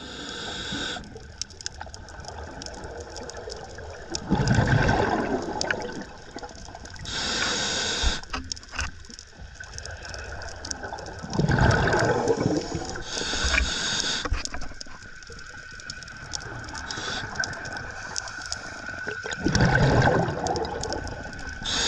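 Scuba diver breathing through a regulator underwater: a short hiss of air on each inhalation, then a low rush of exhaust bubbles on each exhalation, three breaths in a slow, even cycle.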